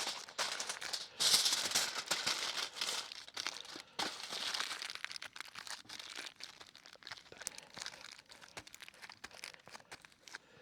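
Aluminum foil crinkling and crumpling as it is folded and wrapped around a food packet, in irregular crackly bursts, loudest about a second in and growing sparser in the second half.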